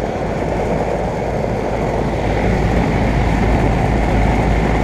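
Central air conditioner condenser unit running: a steady fan rush over a constant low compressor hum.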